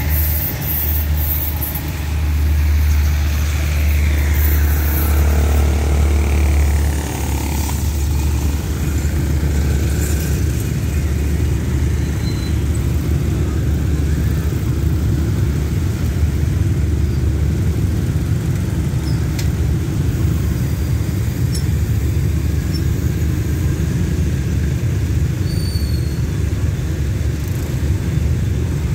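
Railway passenger coaches rolling past a level crossing with a heavy low rumble for the first seven seconds or so, easing off as the train moves away. The rumble gives way to the steady running of motorcycle and car engines as road traffic moves over the crossing.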